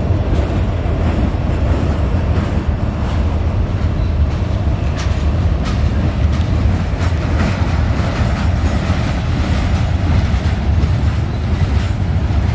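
A train rolling past: a steady heavy rumble of railcars on the rails, with scattered wheel clicks.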